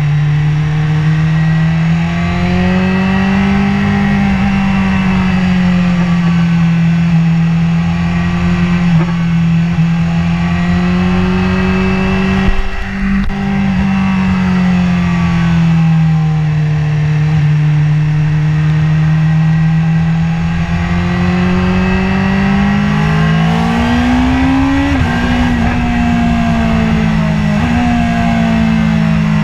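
BMW S1000RR inline-four engine heard on board at moderate revs in second gear, its note rising and falling smoothly with the throttle over a low wind rush. About three-quarters of the way through, the revs climb briefly and then drop suddenly.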